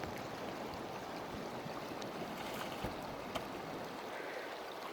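Fast-flowing creek water rushing steadily, with a couple of faint knocks about halfway through.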